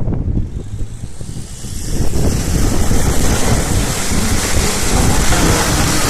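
Mitsubishi Pajero driving off-road, its engine running with a low rumble; about two seconds in, a loud rushing noise joins it and carries on.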